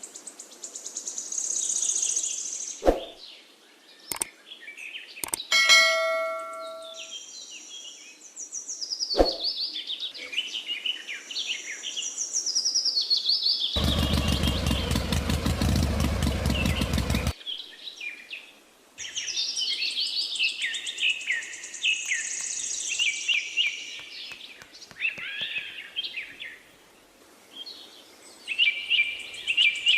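Birds chirping and singing, with a few sharp clicks. About six seconds in comes a short ringing tone. Around the middle a small motor runs for about three and a half seconds, starting and stopping abruptly.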